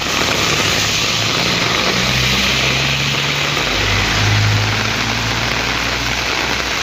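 Heavy rain pouring down on a road, with a vehicle's engine running low underneath it; the engine tone steps up and grows louder about halfway through.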